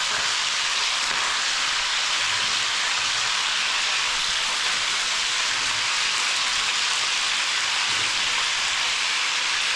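Marinated chicken pieces frying in hot oil in a pan, a steady sizzling and spattering hiss.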